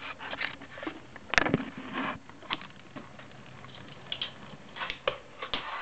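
Fingerboard clacking and scraping on a hard surface: a string of light clicks, with a sharper knock about a second and a half in and a short scrape after it.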